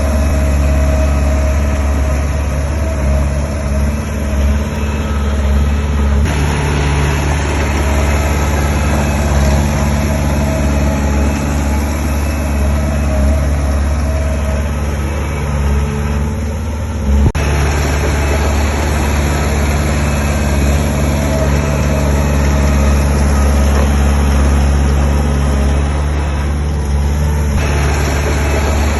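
Diesel engine of heavy construction machinery running steadily with a deep, low hum, and a single sharp knock about seventeen seconds in.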